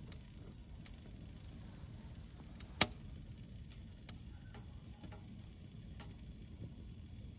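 Two sharp clicks in quick succession about two and a half seconds in, with scattered fainter clicks over a steady low rumble.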